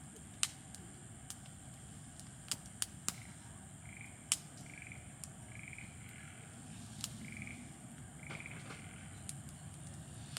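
Wood fire crackling, with sharp irregular pops, in a steady background. A run of short repeated animal calls sounds through the middle of it.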